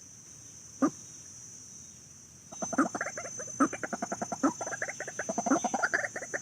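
A fowl gives one short call about a second in, then from about two and a half seconds in breaks into a rapid, unbroken run of excited calls, several a second.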